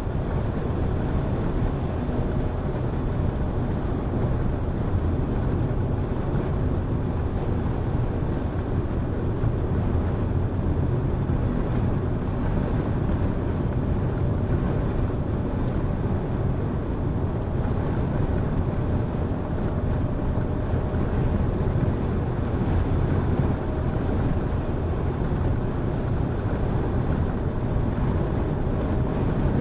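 Car driving at a steady speed: a constant low rumble of engine and tyres on the road, with some wind noise.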